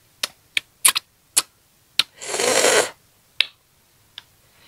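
Close-up crunching and chewing of crisp green ambarella (cóc) fruit: a series of sharp crunches, with a longer, louder crunch about two seconds in.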